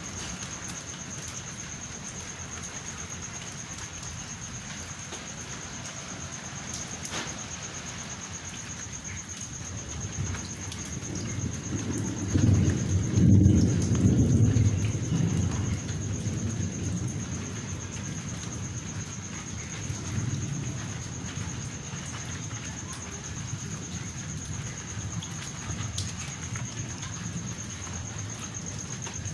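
Steady rain falling, with thunder rumbling in: it builds about ten seconds in, is loudest a few seconds later, then dies away. A fainter rumble follows near twenty seconds.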